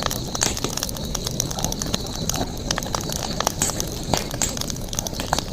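Wood campfire crackling, with irregular sharp pops over a continuous low rush of the burning fire. A steady high-pitched whine sounds in the background.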